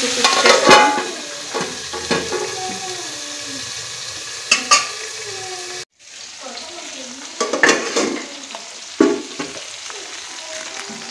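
Chicken and potato pieces sizzling as they fry in oil in a metal wok, with metal clatters and knocks from the aluminium lid and the stirring spoon against the pan. The sizzle cuts out for an instant about halfway through and comes back a little quieter.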